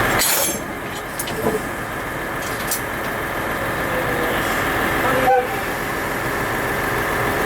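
Train running, a steady rumble with a sharp click about a third of a second in and another about five seconds in.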